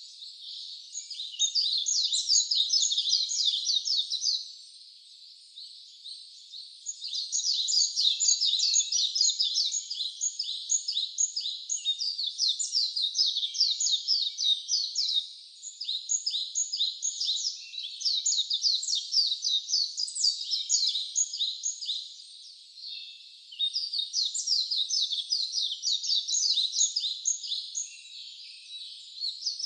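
Wild birds singing: long runs of rapid, high-pitched chirps that pause briefly twice.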